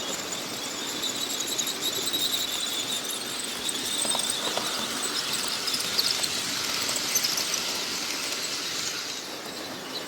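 OO gauge model train running on the layout, with a high-pitched squeal over the steady rolling and motor noise.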